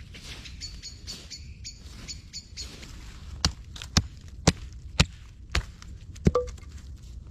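A hand tool striking wood six times, about twice a second, in sharp chopping blows, the last leaving a brief ring. Before the blows, a bird gives a quick run of high chirps.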